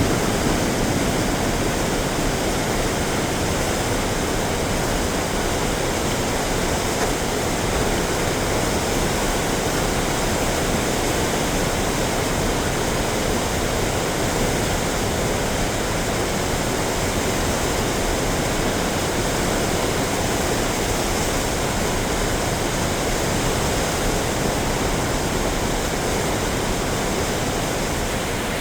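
Skykomish River in flood: a steady, even rush of fast-moving high water.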